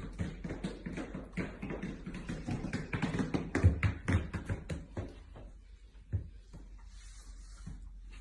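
Rapid, irregular tapping and knocking, with a few heavier low thumps about three to four seconds in, thinning out after about five seconds.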